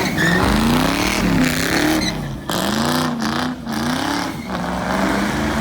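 Car engine being revved hard over and over, its pitch climbing and falling in repeated swells.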